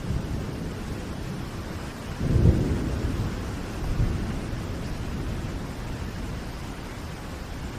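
Steady rain with low thunder rumbling under it; the rumble swells louder about two and a half seconds in, with a smaller swell near four seconds.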